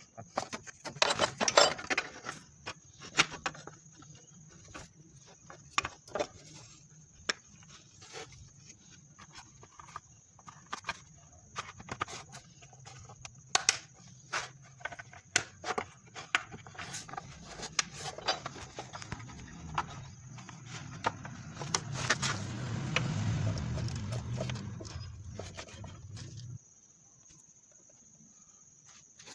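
Irregular light metallic clinks and knocks, as of tools and parts being handled, over a low hum that grows louder and then cuts off suddenly near the end.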